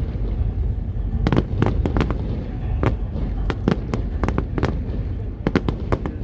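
Aerial fireworks display: a dense, irregular run of shell bursts and sharp bangs, several in quick succession, over a steady low rumble.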